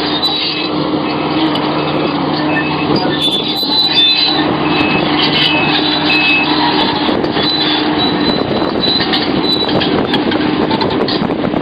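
Sumitomo SH700LHD-5 excavator running and working: a steady diesel engine note under dense mechanical and hydraulic clatter, with short high-pitched tones coming and going.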